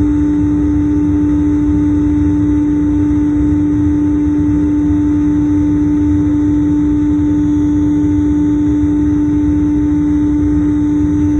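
Airliner cabin noise: the jet engines' steady drone over a low rumble, with a constant loud hum tone.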